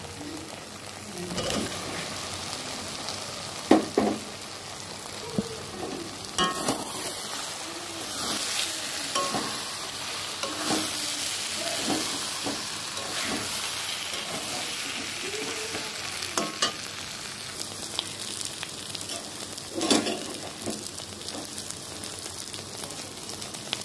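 Soya chunks sizzling in masala paste in a pan as a metal spatula stirs and scrapes them, with a sharp knock of the spatula against the pan now and then.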